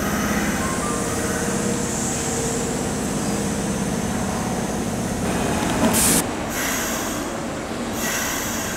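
Kintetsu electric train running through the station, a steady rumble of wheels and motors, with a brief loud burst of noise about six seconds in.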